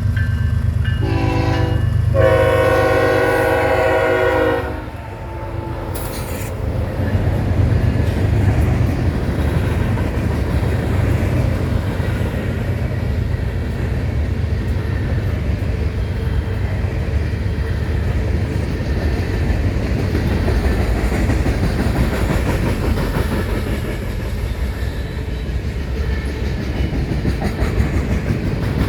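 Diesel freight locomotive's multi-note air horn sounds one long blast starting about a second in and lasting about three and a half seconds, then a freight train rolls past with a steady low rumble and the clatter of wheels over the rail joints.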